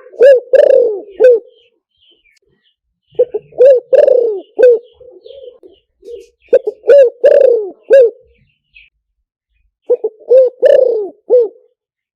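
Spotted dove cooing: four repeated phrases of four or five low coos each, about three seconds apart. Faint high chirps can be heard between the phrases.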